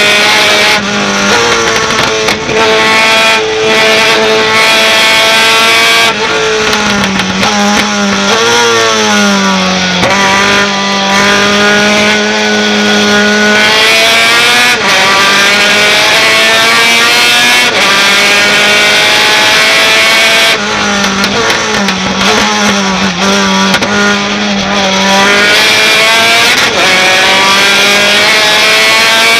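Racing pickup truck engine at hard throttle, its pitch climbing through each gear and dropping sharply at the gear changes or braking several times.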